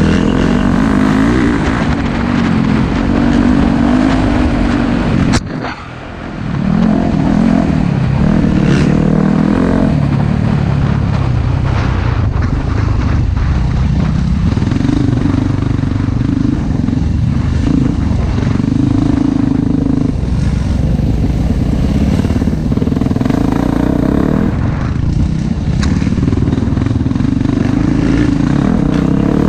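Four-stroke dirt bike engine running on a trail ride, its pitch rising and falling as the throttle is worked. About five seconds in there is a sharp knock and the engine sound dips briefly, then it picks back up.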